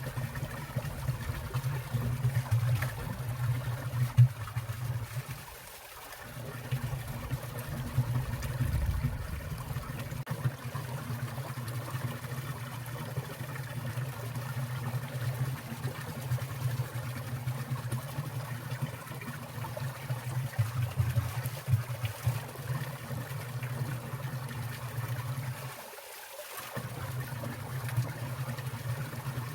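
Water in a mountain stream trickling and splashing steadily. Its low rumble drops away briefly twice.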